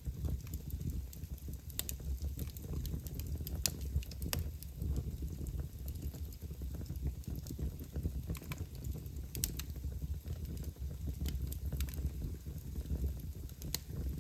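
Fire burning in a fireplace: scattered sharp crackles and pops, irregularly spaced, over a low steady rumble.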